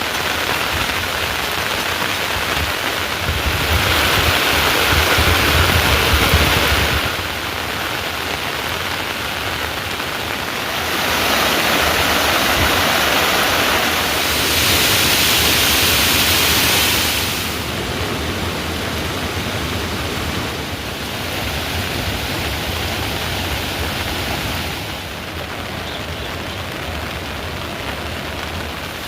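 Heavy rain falling in a steady, loud hiss that grows louder and quieter in steps every few seconds.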